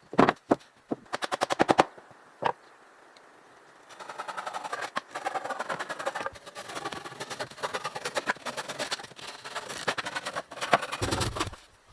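Rapid sharp knocks: a few single strikes, then a quick run of about a dozen, then a long dense rattling clatter through most of the rest.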